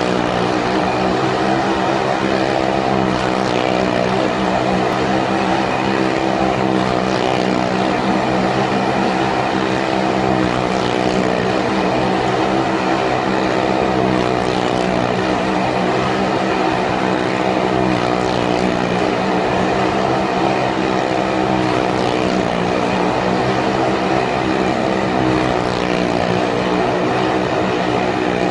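Motorcycle engine running hard and steadily as the bike circles the wall of a Well of Death drum, a continuous loud drone without a break.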